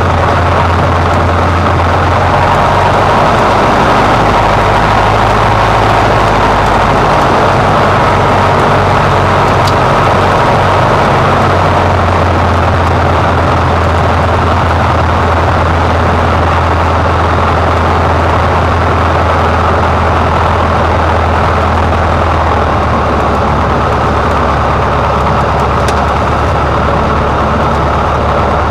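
Cessna 150's four-cylinder Continental O-200 engine and propeller running steadily, heard as a loud drone inside the small cockpit. Its low note shifts slightly a couple of times.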